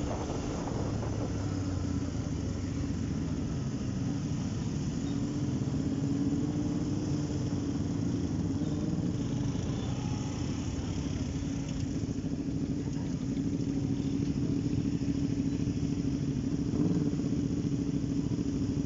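Motorcycle engine running steadily, its tone drifting slightly up and down in pitch, over a constant rumble.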